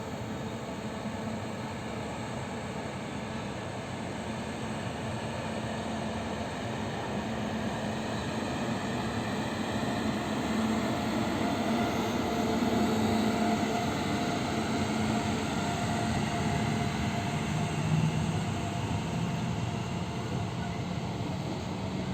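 Train running on the rails, a steady noise that grows louder toward the middle and eases slightly, with a brief louder knock about eighteen seconds in.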